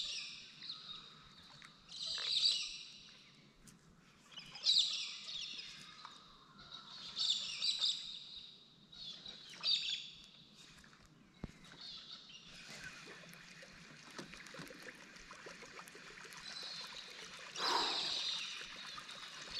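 A bird calling over and over: short high calls about every two to three seconds, some of them loud, with a faint steady hiss in the second half.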